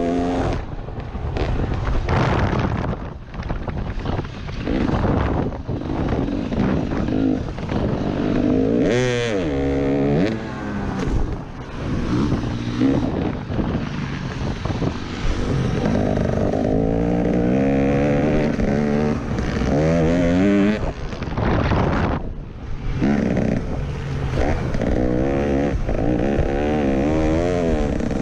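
Motocross bike engine heard from a camera mounted on the bike, revving up and dropping off repeatedly as the rider works the throttle and shifts gears around the track, with short throttle-off dips a few times.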